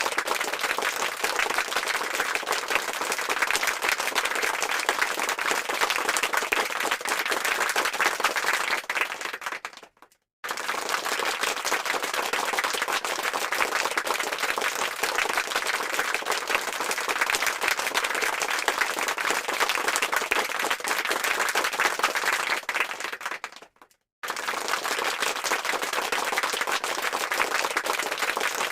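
Crowd applause sound effect: many hands clapping densely. It fades out and stops for a moment twice, about ten seconds in and again near the end, then starts again at full level each time.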